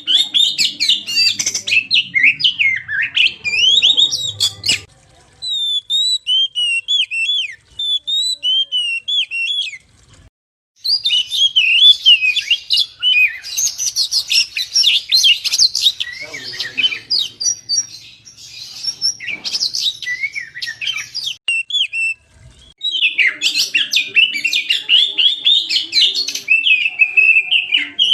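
Oriental magpie-robin (kacer) singing a fast, varied song of chirps and whistles. A sparser run of thin whistled notes and a brief pause come about a third of the way through, then the dense song picks up again.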